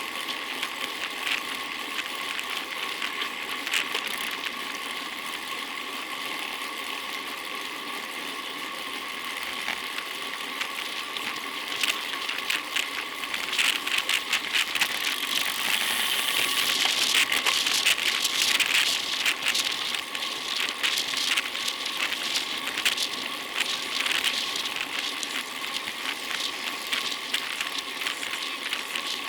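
Bicycle on the move: steady road and tyre noise with rattling and clicking from the bike, busiest and loudest in the middle stretch.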